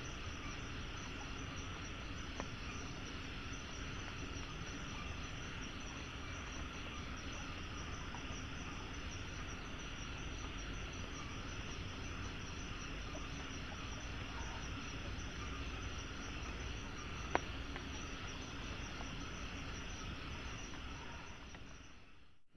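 Tropical forest ambience: insects chirring steadily over a low hiss, with one sharp click about seventeen seconds in. It fades out at the very end.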